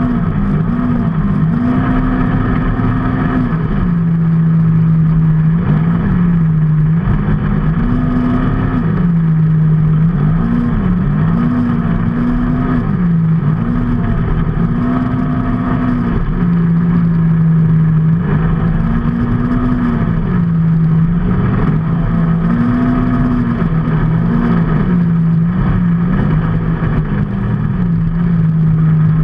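A vehicle engine running under way, its pitch rising and falling again and again as the throttle is opened and closed, over steady road and wind noise.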